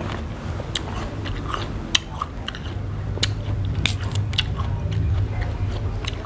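Close-miked chewing of crisp water apple (jambu air), with wet mouth sounds and scattered sharp crunches. The crisp fruit is also split and torn apart by hand.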